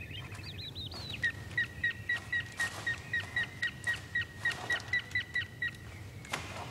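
A bird calling in a quick run of short, evenly spaced high notes, about four a second, after a brief trill and a few chirps at the start.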